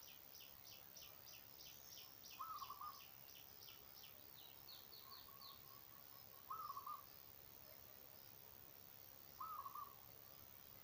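Wild birds calling faintly. A quick series of high chirps, about four a second, runs through the first five seconds. Over it, another bird gives a short two-note call three times, about every three to four seconds.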